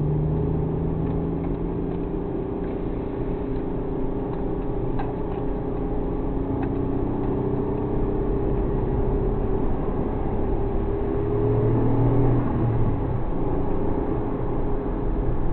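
Suzuki Alto Works HA36S engine and road rumble while driving, the engine note easing slowly down in pitch with small changes in revs.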